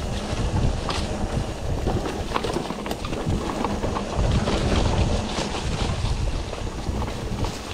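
Wind rushing over the microphone with a heavy rumble, mixed with many quick rattles and clicks from a mountain bike riding over rough trail.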